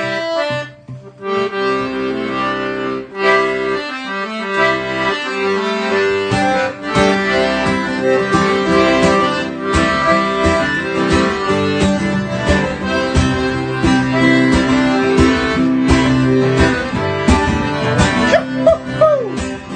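Accordion playing a tune with guitar accompaniment.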